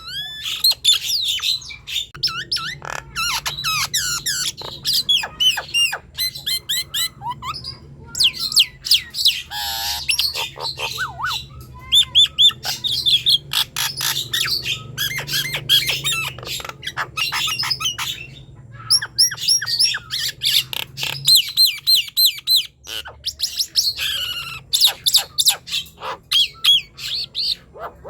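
Nias hill myna singing in full voice: a continuous run of loud, sharp whistles, quick swooping chirps, clicks and harsh squawks with only brief pauses.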